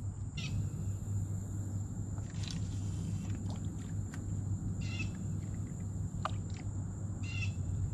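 Birds calling in the open: four short calls spaced about two seconds apart. Under them run a steady low rumble and a thin, steady high-pitched whine.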